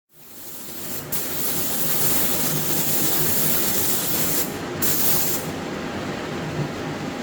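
Silver paint being sprayed onto motorcycle fork sliders: a loud spray hiss in two long bursts, with a short break between them, over a steady low background hum.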